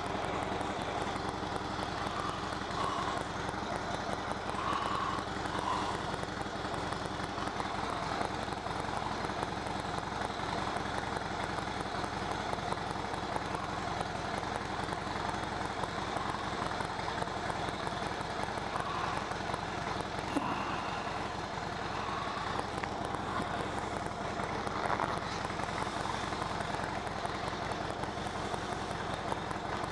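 Harley-Davidson Low Rider S's Twin Cam 110 V-twin engine running steadily at idle.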